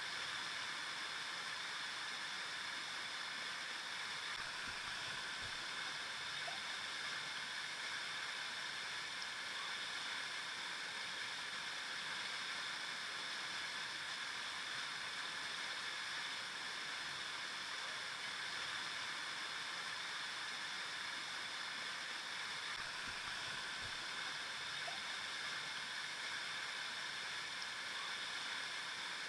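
River water flowing and rushing steadily over rocks, an even hiss-like rush with no change.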